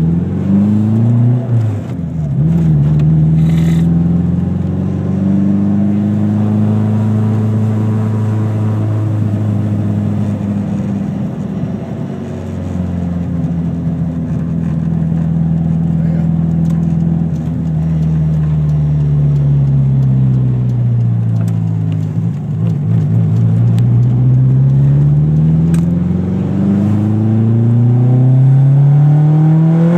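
Turbocharged Eagle Talon TSI's 2.0-litre four-cylinder engine running under load, its pitch climbing and dropping several times as the revs build and fall, with a long steady climb near the end. The car has a big turbo set to about 12 psi of boost.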